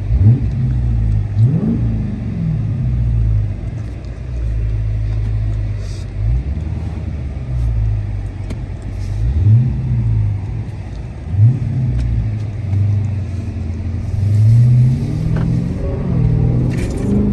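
Supercharged 6.2-litre HEMI V8 of a Dodge Charger Hellcat, its exhaust running with the mid mufflers deleted, revved in about six short blips that each fall back to a rumbling idle.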